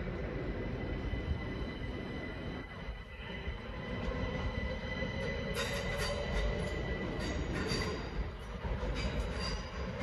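Electric multiple-unit passenger train moving slowly through the station's pointwork, with a steady whine and rail noise. From about halfway, screeching wheel squeal and clatter set in intermittently.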